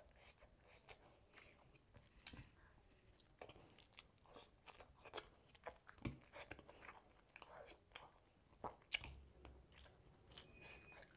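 A person chewing and biting grilled chicken close to the microphone: irregular soft wet clicks and small crunches, one sharper crunch late on.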